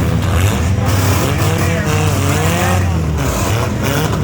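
Demolition derby cars' engines running loudly together, several of them revving so that their pitch rises and falls over a steady low drone.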